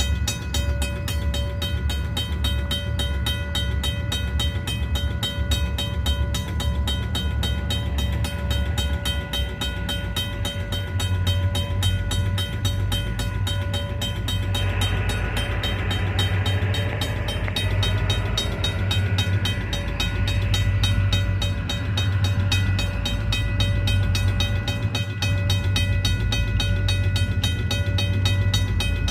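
EMD SD40-2 diesel-electric locomotives running, their 16-cylinder two-stroke diesels giving a steady low rumble. A rougher, hissing noise joins in for several seconds about halfway through.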